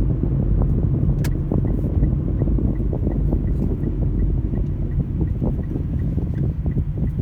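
Steady road and engine rumble heard inside a moving car's cabin, with a faint, regular ticking about three times a second starting about two seconds in.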